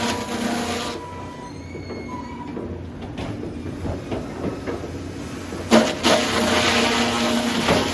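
Sawmill machinery running with a steady hum. About a second in it drops quieter with a brief high squeal, then a sharp knock near the end and the machinery runs loud again.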